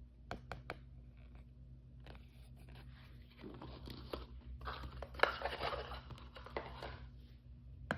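A few light clicks, then a toy's plastic packaging crinkling and tearing as it is opened by hand, in uneven bursts.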